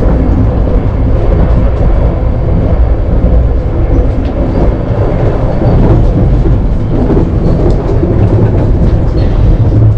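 Steady low rumble of a high-speed passenger train running at speed, heard from inside the carriage.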